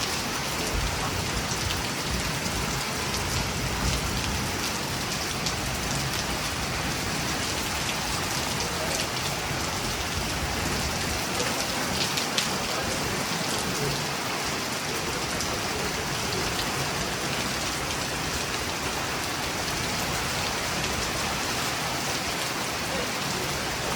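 Steady rain from a thunderstorm falling and pattering on surfaces, with many small drop ticks.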